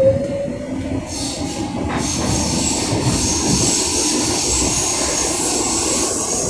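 Berlin U-Bahn H95 train running, a rising whine fading out about a second in, then a steady high-pitched squeal from about two seconds in over the rumble of the running train.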